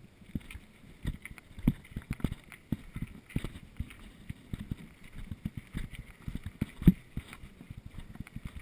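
Mountain bike rattling and jolting over a rough trail: a rapid, irregular run of knocks and thumps, with one hard jolt about seven seconds in.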